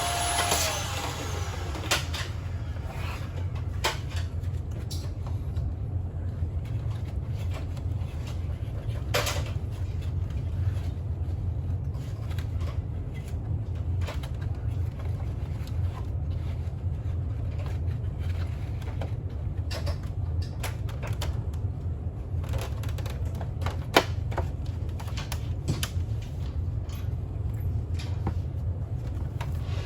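A steady low hum with scattered light clicks and knocks, as of small parts and tools being handled, one sharper knock standing out near the end.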